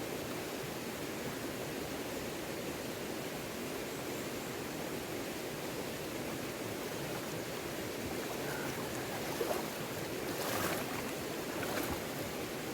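Steady rush of a river swollen by heavy rain, with a faint rustle or two near the end.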